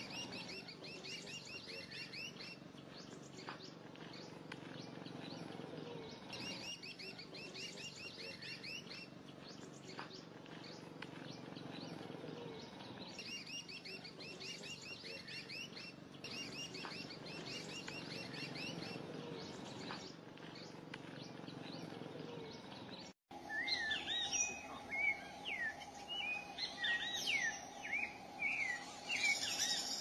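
Songbirds singing: a short trilled phrase repeats about every six to seven seconds over a steady low background noise. About 23 seconds in, the sound cuts abruptly to louder, quicker chirps from other birds, with a steady hum underneath.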